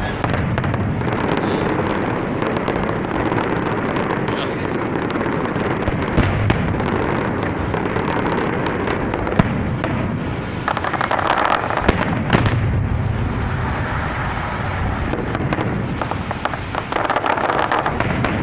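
Fireworks going off in a dense, continuous crackle, with a few sharper bangs standing out about six, nine and twelve seconds in.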